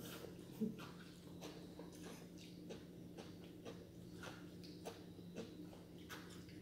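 A person chewing food at the table: faint, irregular soft clicks and crunches from the mouth, about one or two a second, over a steady low hum.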